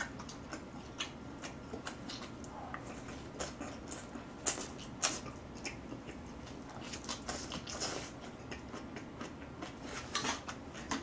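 Close-up eating sounds: wet chewing and lip-smacking on instant black-bean noodles and kimchi, heard as a scatter of small, irregular clicks and smacks, a couple of them louder about halfway through.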